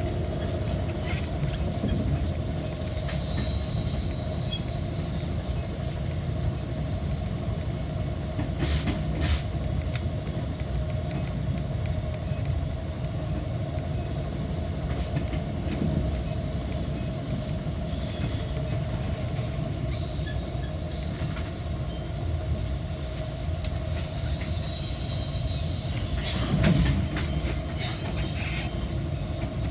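Metra commuter train under way, heard from on board: a steady rumble of wheels on rail under a constant hum, with a few sharp clicks about a third of the way in and again near the end.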